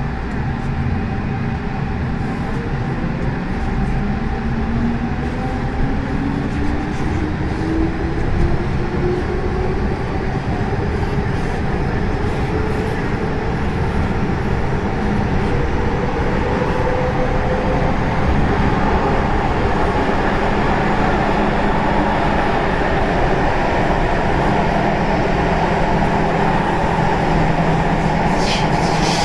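MTR M-Train electric multiple unit accelerating: the traction motors' whine rises steadily in pitch for the first fifteen seconds or so over a constant rumble of wheels on rail. Then it runs on at speed, with a few sharp clicks near the end.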